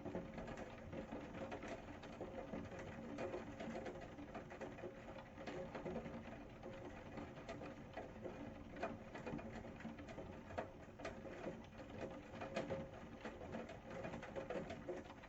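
Rain falling, with many separate drops ticking irregularly on a hard surface over a steady hiss, and a faint steady hum underneath.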